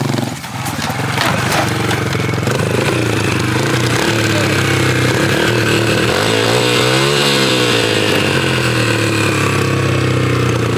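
Dirt bike engine running at a steady pitch, with a brief dip and rise in revs about two-thirds of the way through.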